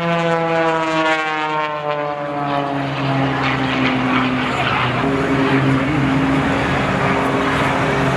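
Aircraft engines passing by, their note dropping in pitch over the first three seconds, then holding a steady engine drone over a rushing noise.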